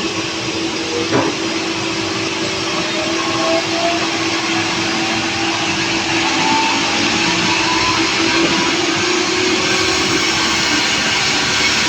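Sawmill saw running through a log: a loud, steady hiss of the blade in the wood under a machine whine whose pitch slowly drifts up and down. A single knock comes about a second in.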